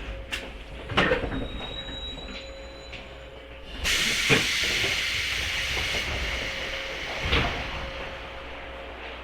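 103-series electric train car, stopped or just stopping: a clunk about a second in, then a loud hiss of released compressed air from its air-operated gear that lasts a few seconds, with a knock in it and another clunk as it ends. A steady electrical hum runs underneath.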